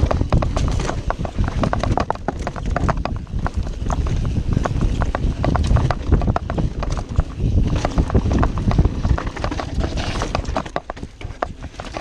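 Full-suspension mountain bike rattling and clattering over a rough trail at speed: dense, irregular clicks and knocks from the bike over a steady low rumble, easing off somewhat near the end.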